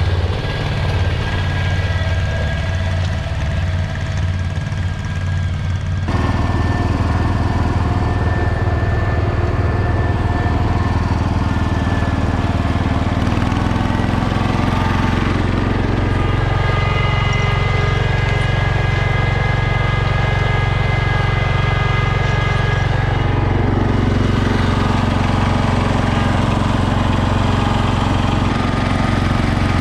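Garden tractor engines running steadily, with an abrupt change in the engine sound about six seconds in and the engine note shifting again partway through.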